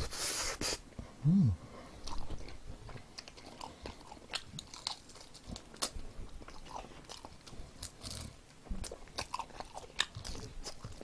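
Close-up chewing of crispy fried chicken: irregular crunches and wet mouth clicks, with a brief low hum about a second in.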